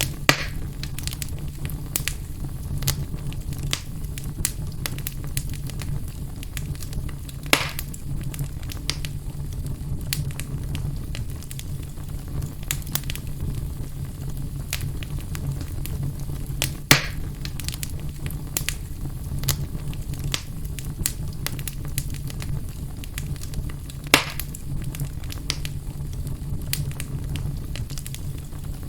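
Wood fire burning in a fireplace: constant crackling with a steady low rumble of flames, and four louder sharp pops, the first right at the start, then about 8, 17 and 24 seconds in.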